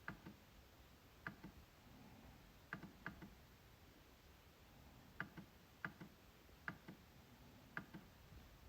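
MacBook trackpad being clicked, about eight times at irregular intervals; each click is a quick double tick of press and release.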